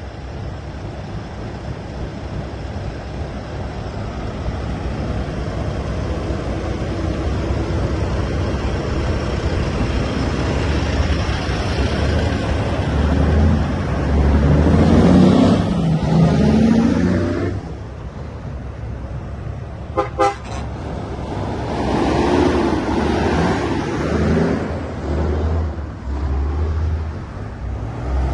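Big trucks sounding their horns over the steady din of engines and traffic, getting louder through the stretch, with the loudest horn sounding about halfway and two short sharp blasts about two-thirds of the way in.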